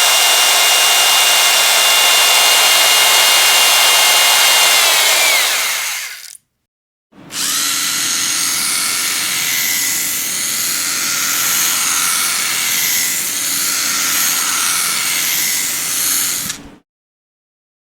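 Electric power drill running at speed with a high whine, then spinning down about six seconds in. After a second's pause it starts again, runs for about nine seconds, and stops near the end.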